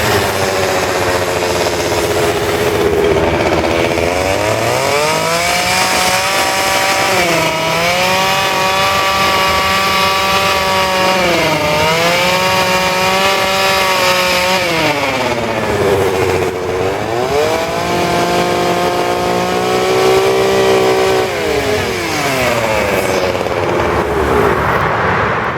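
Two-stroke chainsaw running at high revs while carving wood, its engine note dipping and rising again repeatedly as the chain bites in and frees up.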